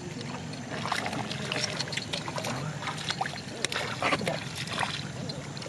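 Irregular splashing and sloshing in shallow muddy water, with many short wet clicks and slaps.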